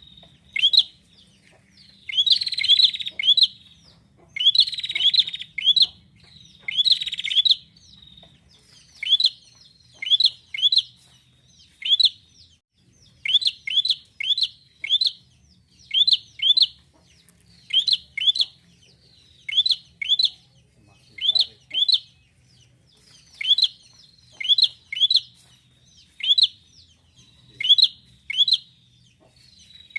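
Prinia (prenjak) calling: sharp, high chirps in quick groups of two or three, repeated about once a second throughout. For the first several seconds the calls are louder and fuller, then they settle into thinner, evenly spaced chirps.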